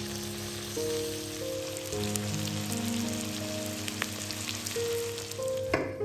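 Chicken thigh pieces sizzling and spitting in hot oil in a frying pan, a steady crackling hiss over background music. A short knock sounds just before the sizzle cuts off abruptly near the end.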